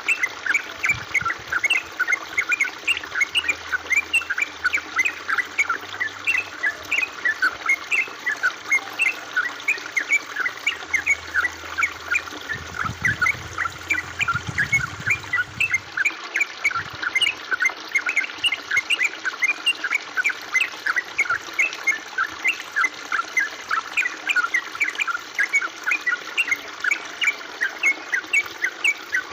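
Water trickling and plinking in a steady stream of quick, high drips and bubbles, several a second, over a soft hiss.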